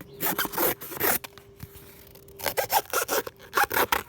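Serrated blade of a Canary cardboard cutter sawing through cardboard in short rasping strokes. There is a pause a little after a second in, then a quicker run of strokes.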